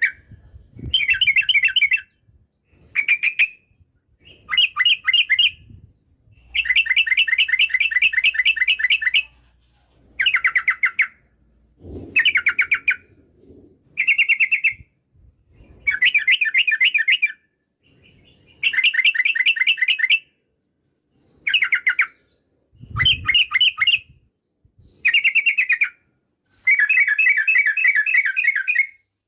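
Yellow-vented bulbul (trucukan) singing: about a dozen short phrases of rapid, bubbling chattering notes, each lasting up to two or three seconds and separated by brief pauses.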